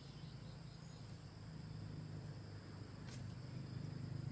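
Faint outdoor background: a steady high-pitched insect drone, typical of crickets, over a low steady rumble, with one faint click about three seconds in.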